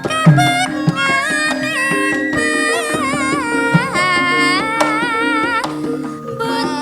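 Javanese gamelan music: a voice sings a wavering, ornamented melody over the steady tones of the bronze metallophones and gongs. Low hand-drum strokes come in near the start and again around the middle.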